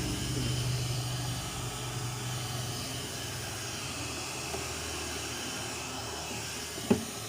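Hair dryer blowing steadily, heating a car headlamp's plastic housing to soften the glue around the lens seam. A sharp knock near the end.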